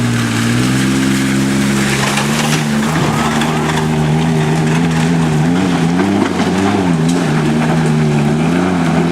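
Ford Ranger pickup's engine at full throttle on a hill climb, held at high revs, the revs surging and dipping several times in the second half as the tires slip on the rain-slick hill.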